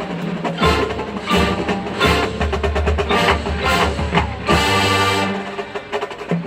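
Marching band music: a percussion-heavy passage of many quick, sharp hits over sustained low notes.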